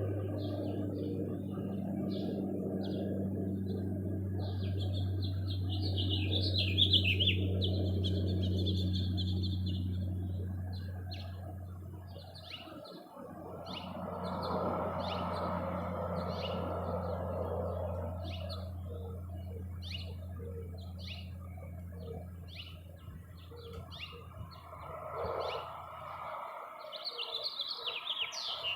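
Small birds at a feeder chirping over and over, with a fast chattering squabble from about 5 to 10 seconds in and another near the end. A steady low hum runs underneath and stops suddenly near the end.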